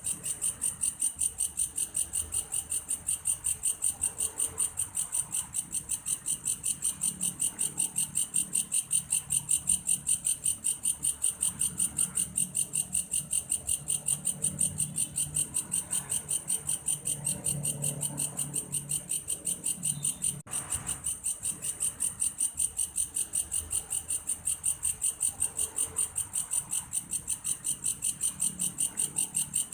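Belalang kayu, an insect that sounds like a cricket, calling in a steady, evenly pulsed high-pitched chirring at about three or four pulses a second. The call drops out for an instant about twenty seconds in.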